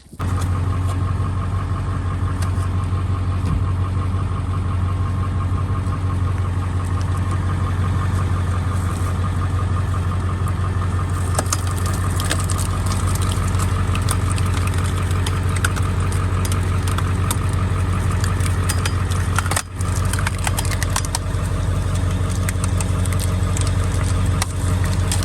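Pickup truck engine idling steadily in drive, turning a wheel-mounted screw-cone log splitter, with faint scattered ticks in the second half.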